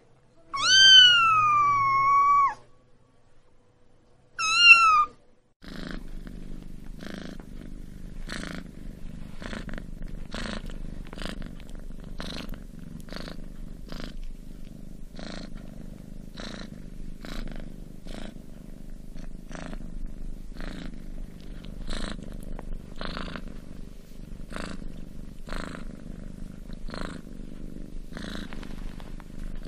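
A cat meows twice: first a long call that falls in pitch, then a short one a couple of seconds later. After that comes steady purring, with a soft regular pulse about once every three-quarters of a second.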